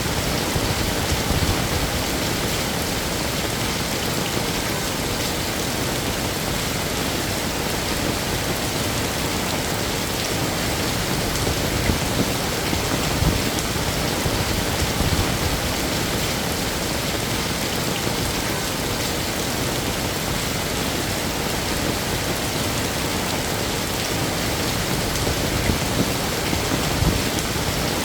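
Heavy rain falling steadily, a dense, even hiss of drops hitting hard surfaces.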